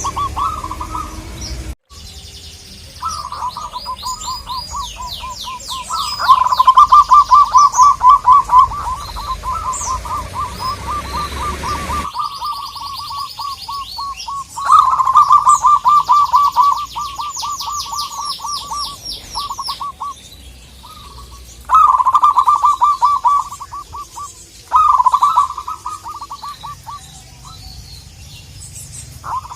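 Zebra doves (perkutut) singing: repeated bouts of rapid staccato cooing notes, loudest about six seconds in and again about fifteen seconds in. A higher, fast chattering trill from another bird sounds over them in places.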